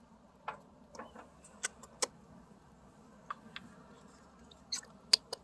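Scattered sharp clicks and light taps, about a dozen at irregular intervals, the loudest one near the end.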